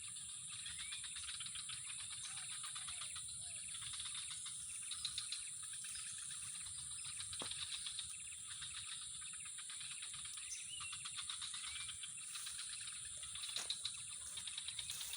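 Steady high insect buzz with a fast pulsing trill, and short bird chirps now and then.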